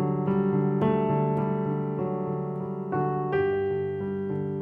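Piano playing a flowing G major pattern: a left-hand accompaniment pattern under quick sixteenth-note figures in the right hand, with the notes ringing over one another.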